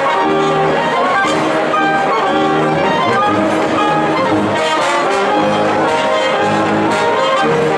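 Brass instruments, trumpets and trombones, playing a tune together with several notes sounding at once.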